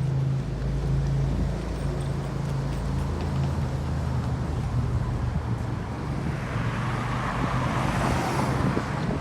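Street traffic: an engine's steady low hum, then a vehicle passing close by near the end, its noise swelling and fading.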